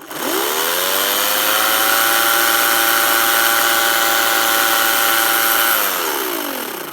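EGO 16-inch battery-powered chainsaw triggered with no load: the electric motor and chain spin up with a rising whine over about a second, run at a steady pitch for about five seconds, then wind down with a falling whine when the trigger is released.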